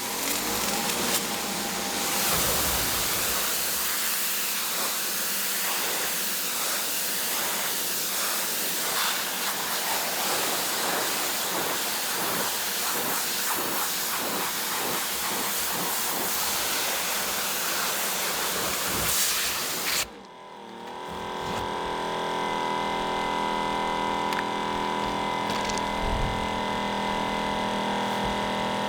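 A steady, loud hiss like escaping compressed air runs for about twenty seconds, then cuts off suddenly. A steady mechanical hum made of several fixed tones follows.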